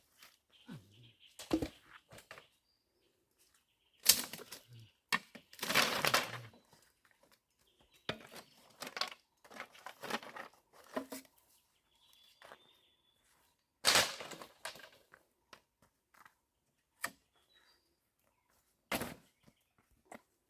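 Irregular bursts of flapping wings and scuffling from chickens being caught, with a few sharp cracks and a longer flurry of flapping partway through.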